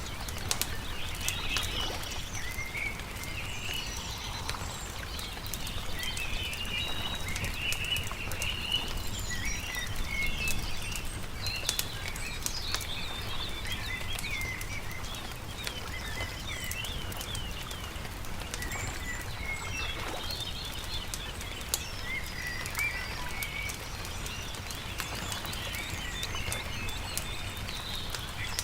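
Several small birds chirping and trilling, over the irregular crackle and pops of a burning campfire and a low steady rumble.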